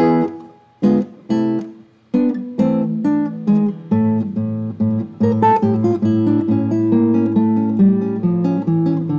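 Solo acoustic guitar playing: a couple of chords plucked and left to ring and die away, then about two seconds in a steady picked melody over bass notes.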